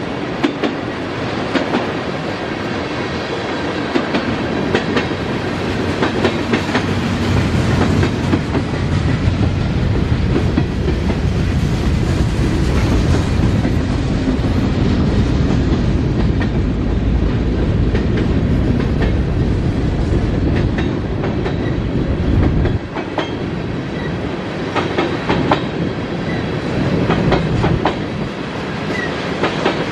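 Norfolk Southern freight train cars rolling past with a steady rumble, the wheels clicking over rail joints. The rumble drops suddenly about two-thirds of the way through.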